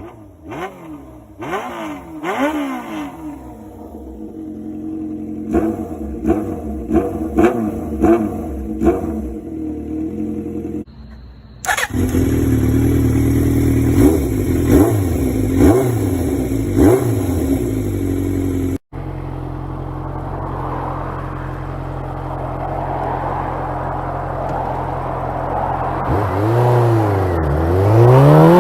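Suzuki GSX400 Impulse inline-four revved through an aftermarket exhaust in repeated short throttle blips, the pitch rising and falling each time. This comes in separate clips, with abrupt changes about a third and two-thirds of the way in. The last third is a steadier running note with a rushing noise, and a new rev starts near the end.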